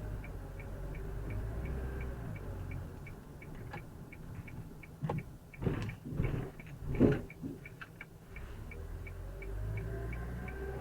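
Hyundai Porter 2 diesel truck driving with a low engine rumble and a steady light ticking about two to three times a second. Midway the rumble drops and a run of thumps and knocks follows over about two seconds, the loudest about seven seconds in, as the truck goes over a speed bump.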